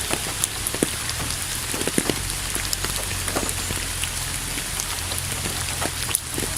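Steady rain falling, an even hiss dotted with individual drops striking close by, over a low steady rumble.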